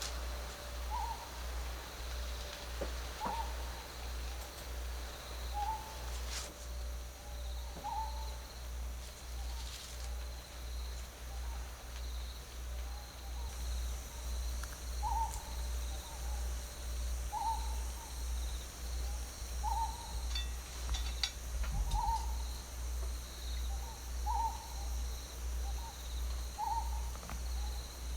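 A short hooting call, repeated about once a second with a pause of several seconds in the middle, over a steady low pulsing rumble.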